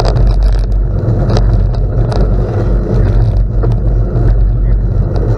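Bicycle riding over gravel: a loud, steady rumble of wind and tyre noise on the microphone, with scattered crackles of gravel under the tyres.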